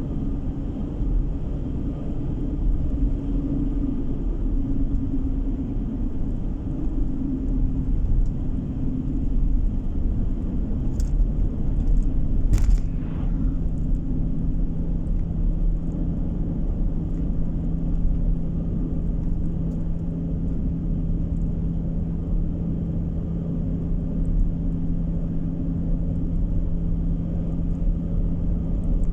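Steady low road and engine rumble inside a moving car, with a short sharp click or knock about twelve seconds in, after which a steady low hum runs alongside the rumble.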